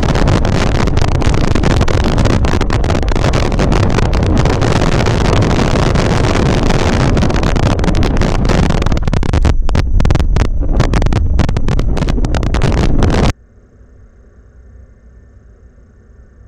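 Strong wind buffeting the microphone: a loud, rushing noise with brief gusting dropouts that cuts off abruptly about 13 seconds in, leaving only a faint low hum.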